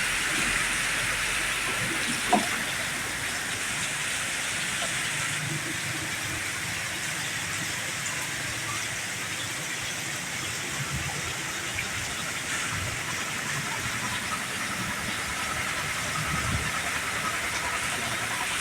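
Heavy rain with a steady hiss, along with a low vehicle rumble, and one sharp knock about two seconds in.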